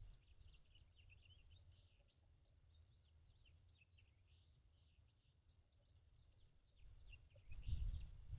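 Finches giving a rapid run of short, high, down-slurred chirps and twitters throughout. Near the end a low rumble swells up and is the loudest sound.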